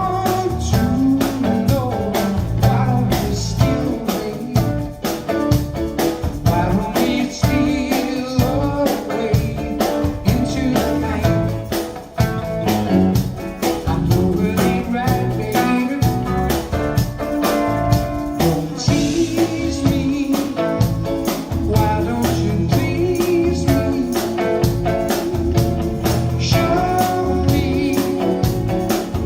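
Live band playing a soft-rock song with a steady drum beat, guitar and singing.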